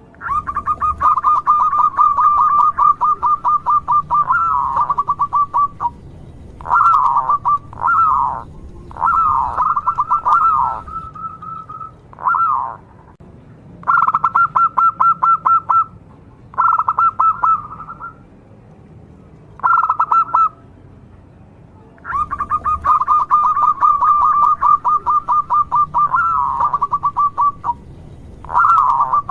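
Local zebra dove (perkutut) singing: phrases of rapid staccato coos in quick pulsed runs, broken by short pauses. A long run opens the stretch, shorter phrases follow in the middle, and another long run comes about two thirds of the way through.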